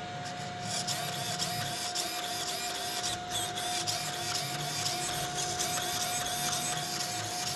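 A small electric motor whirring steadily, with a constant whine and a fine ticking texture.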